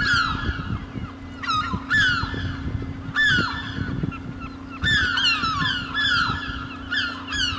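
Birds calling over and over, short calls that drop in pitch, sometimes several at once, over a steady low hum.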